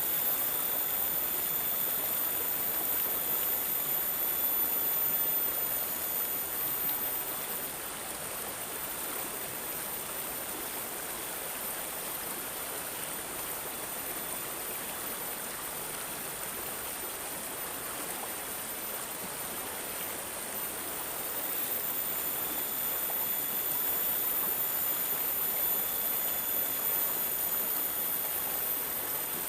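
Water babbling and gurgling steadily, like a small running stream, a little softer through the middle stretch.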